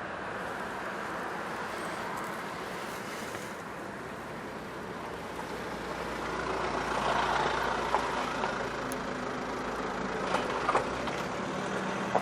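Steady motor-vehicle noise that swells for a few seconds past the middle, with a few sharp clicks near the end.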